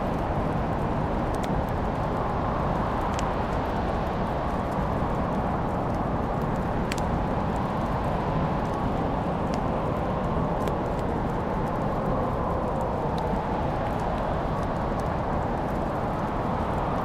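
Wood fire burning in a fireplace: scattered sharp crackles and pops over a steady low rushing sound, with a few louder pops spaced irregularly several seconds apart.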